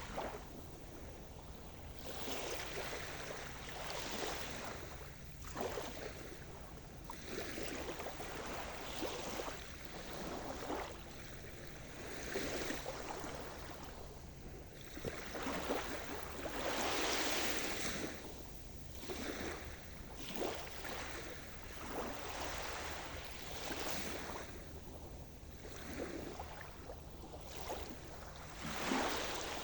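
Sea surf: waves breaking and washing in, in repeated surges every few seconds, with the biggest wave breaking a little past halfway.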